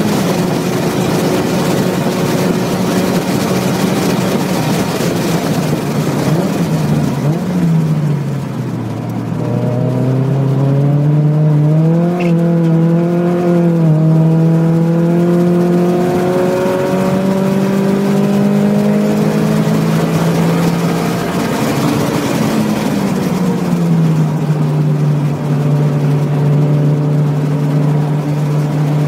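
Mazda Miata's four-cylinder engine at racing speed, heard from inside the car over heavy wind noise. The note falls as the car slows, with quick throttle blips on downshifts about seven seconds in, climbs steadily under acceleration, dips with another blip past twenty seconds, then holds steady.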